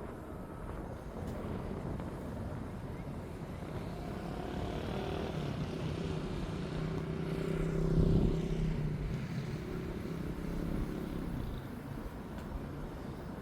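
A passing engine: a steady hum grows louder from about four seconds in, peaks around eight seconds, then fades away.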